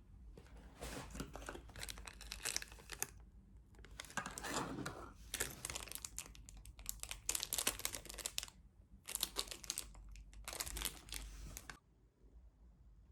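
Packaging crinkling as it is handled, in several bouts of rustling that stop near the end.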